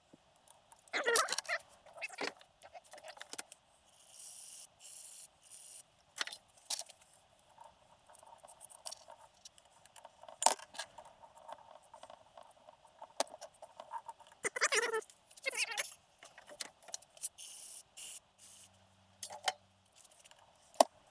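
Small metal parts such as bolts and hand tools clinking and rattling as they are handled and set down, with scattered sharp knocks.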